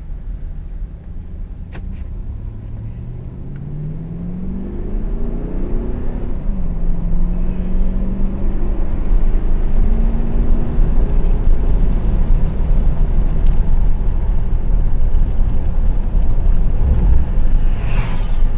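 Car engine accelerating, its pitch climbing, dropping at a gear change about six and a half seconds in, then rising again. Road and engine noise grow steadily louder.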